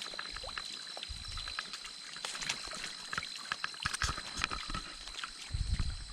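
Shallow stream water trickling and splashing, with many short splashes and knocks scattered through it.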